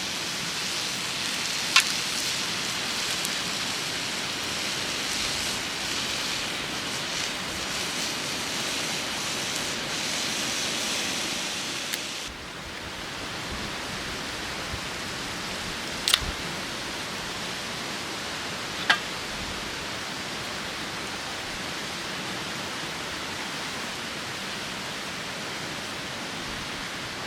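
A steady rushing noise with a few sharp clicks. About twelve seconds in it drops a little and turns duller.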